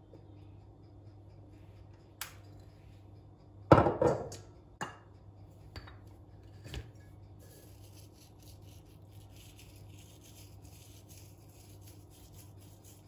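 Kitchen preparation sounds: a sharp click, then a loud clatter of utensils about four seconds in followed by a few lighter knocks. From about halfway, a quick, even run of rubbing or scraping strokes.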